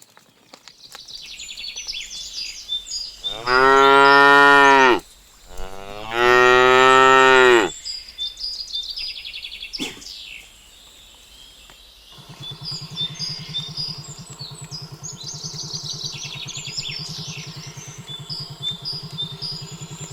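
A cow moos twice, two long, loud calls a second apart, over high chirping in the background. About twelve seconds in, a steady low engine hum sets in and carries on.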